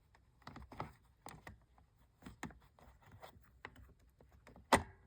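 Irregular small clicks and taps of plastic parts being handled on a toy aquarium, with one sharper, louder click near the end.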